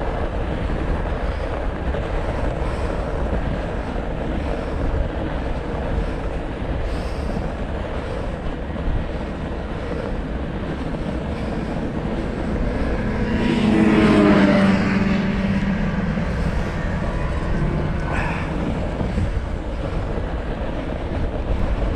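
Wind buffeting the action-camera microphone during a ride on a fat bike, a steady low rumble throughout. Around the middle a pitched, engine-like drone swells and fades over about three seconds.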